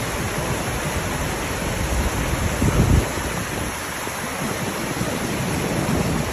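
Steady rushing of flowing water, with gusty low rumbles of wind on the microphone that peak briefly just before three seconds in.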